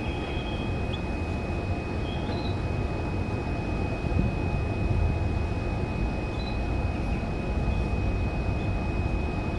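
A steady low rumble with a constant thin high tone over it, and a few faint, short chirps from canaries scattered through it.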